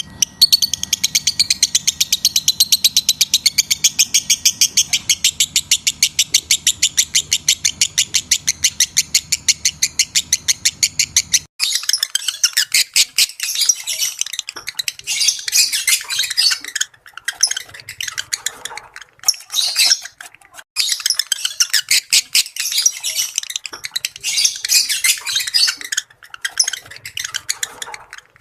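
Lovebirds chattering: first a fast, even run of high chirps over a faint low hum, then, about eleven seconds in, an abrupt switch to irregular bursts of shrill chattering and squawks with short breaks between them.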